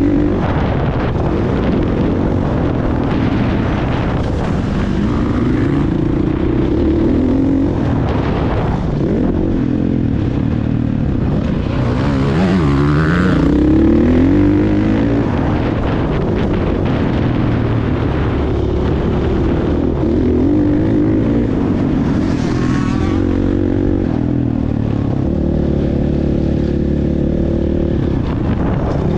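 Motocross bike engine revving up and down over and over, its pitch rising and falling with throttle and gear changes, over a steady rushing noise.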